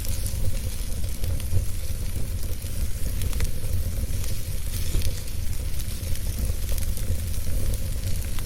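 Fire burning with a steady low rumble and scattered sharp crackles and pops.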